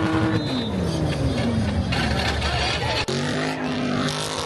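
Car engine held at high revs, then the revs falling away over about two seconds. About three seconds in, the sound breaks off suddenly into a steadier, lower engine note, with crowd voices under it.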